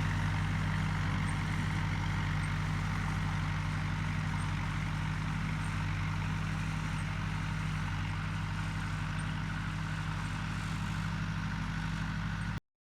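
An engine idling steadily with a low, even throb, cut off abruptly near the end.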